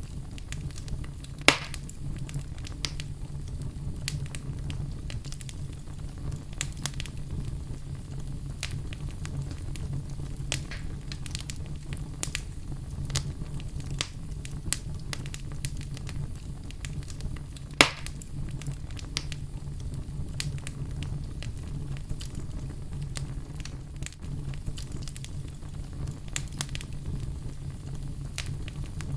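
Fireplace fire burning, with a steady low rumble of flames and scattered crackles throughout. Two sharp, louder pops stand out, one about a second and a half in and one about eighteen seconds in.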